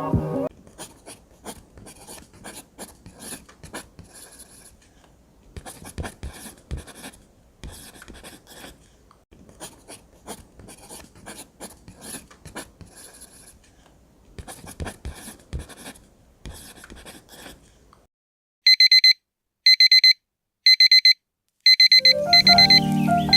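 A pen scratching on paper in bursts of writing strokes. Then a digital alarm clock beeps in five short bursts, about a second apart. Lo-fi background music comes in near the end.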